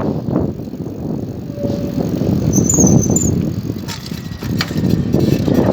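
Wind buffeting the microphone of a camera carried on a moving bicycle, with a heavy, uneven rumble. A few faint high chirps come through about halfway.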